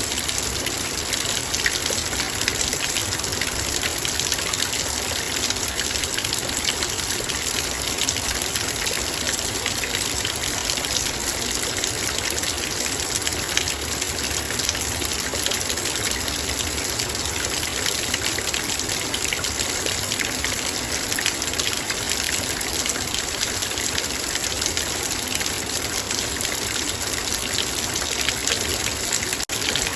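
Heavy rain falling on a metal bowl: a dense, steady patter of drops striking the metal over the hiss of the downpour.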